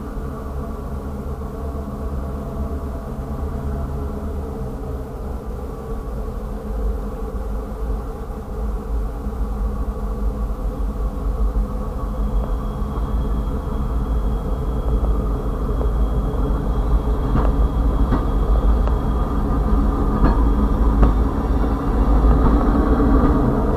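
Diesel freight locomotives running with a steady low rumble that grows gradually louder as the train approaches and draws alongside. Sharp clicks of wheels over the rails come in the last third.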